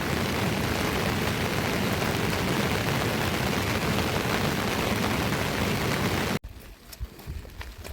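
Steady rushing of water, a dense even noise with a heavy low rumble, which cuts off suddenly about six seconds in, giving way to a quieter background with a few sharp taps.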